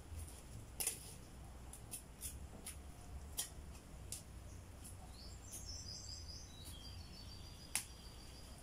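A small bird gives a brief twittering call about five seconds in, over a low steady rumble. Several sharp clicks are scattered through, the loudest one near the end.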